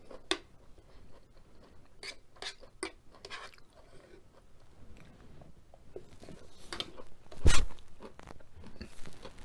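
Close-up chewing and crunching of food, with short clicks of a metal fork against a metal sheet pan. About seven and a half seconds in comes one louder clunk, as the fork is set down in the pan.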